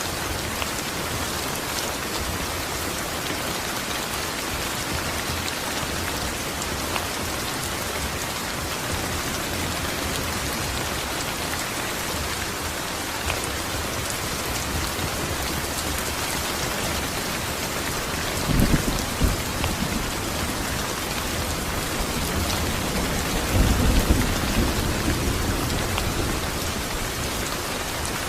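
Steady heavy rain hissing, with a short low rumble of thunder about two-thirds through and a longer, louder roll of thunder a few seconds later.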